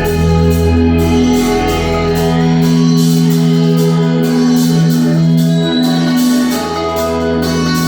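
Live progressive rock band playing an instrumental passage: long held keyboard chords over a steady bass line, with guitar.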